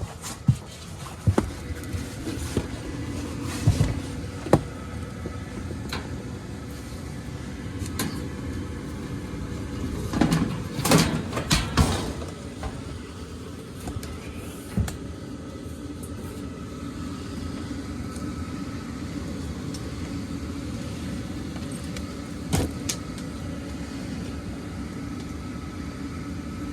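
Gas furnace's fan motor running steadily with a faint hum, while the burner stays unlit because the gas valve is set to off. Several loud knocks and clunks of handling and climbing come through it, a cluster about ten to twelve seconds in.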